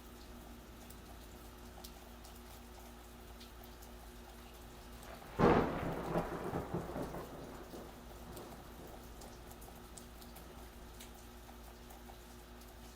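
Steady gentle rain with one thunderclap about five seconds in: a sharp crack that rumbles on for about two seconds and fades back into the rain.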